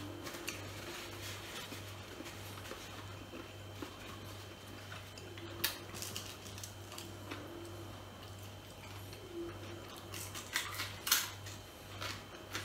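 Close-up eating sounds: a man chewing roast chicken eaten by hand, with scattered wet smacks and short crackles, a sharper one about six seconds in and a cluster near the end, over a steady low hum.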